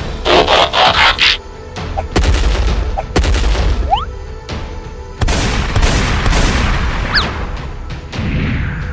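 Robot-transformation sound effects over background music: a dense burst of mechanical clattering near the start, then heavy booms and short sliding swooshes.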